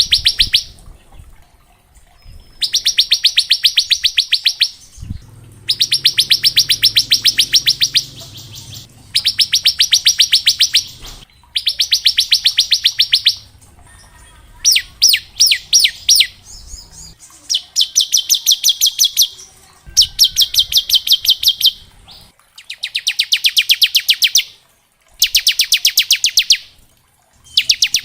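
Bar-winged prinia (ciblek) singing its 'ngebren' song: a string of rapid, machine-gun-like high trills about two seconds long each, repeated with short pauses, and a few separate sharp notes about halfway through.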